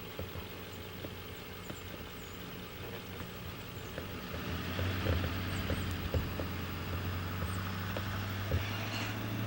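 An engine running steadily, growing louder about four seconds in, with scattered light knocks.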